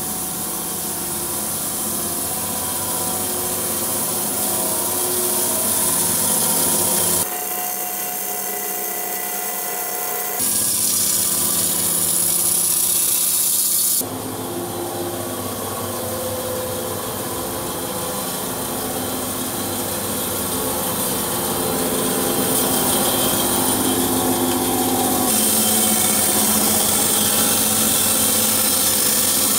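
Sawmill running and cutting through a sycamore log: a steady machine hum under the hiss of the blade in the wood. The sound changes abruptly about 7, 10 and 14 seconds in, where edited clips are joined.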